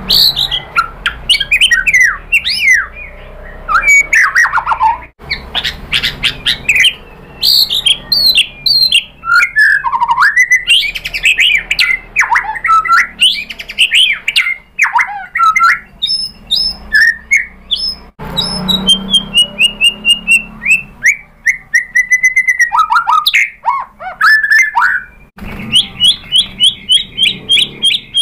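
White-rumped shama (murai batu) singing a loud, varied song of whistled notes that glide up and down, with fast runs of repeated notes. A descending series of notes comes about two-thirds through, and a rapid chatter of evenly repeated notes near the end.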